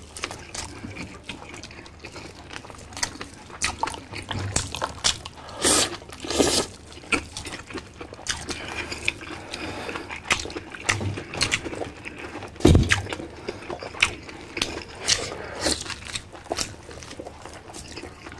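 Close-miked wet chewing and lip-smacking of people eating soft boiled beef and vegetables, a string of irregular small clicks and smacks. One dull thump comes near the middle.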